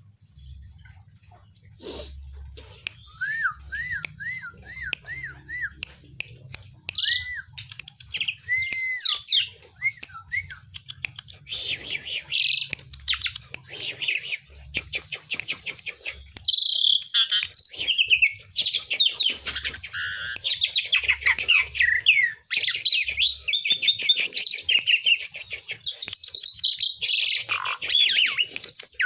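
Asian pied starling (jalak suren) singing: first a run of six repeated arching whistled notes, then scattered whistles, and from about a third of the way in a loud, fast, dense scratchy chattering song.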